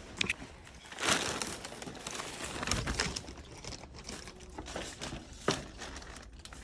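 Crinkling and rustling of a takeout bag being handled, loudest about a second in, with a few sharp clicks and knocks.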